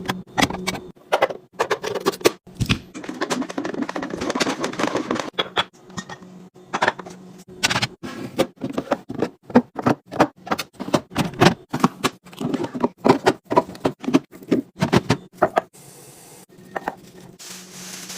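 Rapid clicks, taps and knocks of packaged drinks and snacks being handled and set down in a mini fridge restock, with packaging rustling for a couple of seconds about three seconds in. A low steady hum runs underneath.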